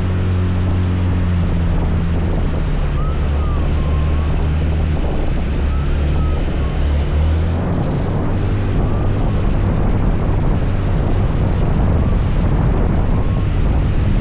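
Motor scooter riding at steady speed: a steady engine hum with wind buffeting the microphone. About halfway through, the engine hum drops back and the wind and road rush take over.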